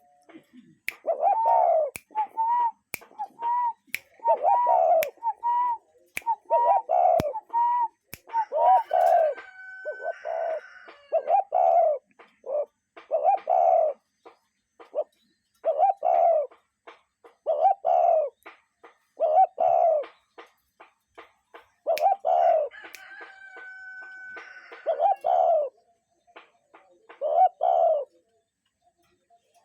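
A bird calling in a long run of low, hooting notes, about one every second, with short gaps between groups. A steady higher tone comes in twice along the way.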